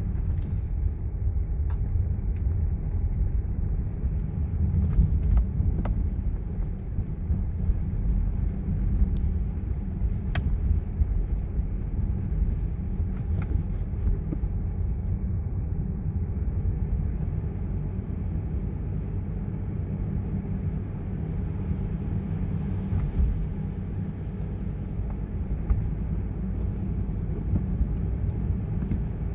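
A car driving on a snowy road: a steady low rumble of engine and road noise, with a few faint ticks.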